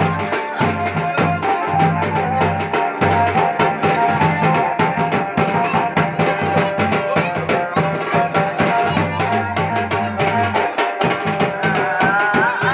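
Garhwali wedding band music: fast, dense drumming under a held melody line and a low pulsing bass, with a wavering melody rising near the end.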